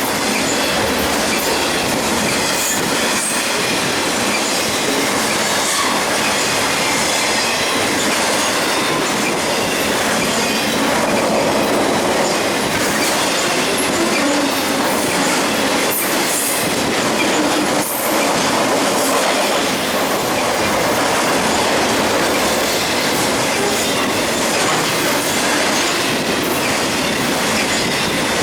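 BNSF double-stack container train rolling past at speed: a steady loud rumble and clatter of freight car wheels on the rails, with thin wheel squeal tones running through it.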